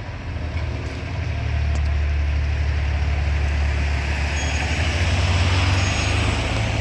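Fire truck engine running with a steady low rumble, building up over the first second or so, before the siren comes on.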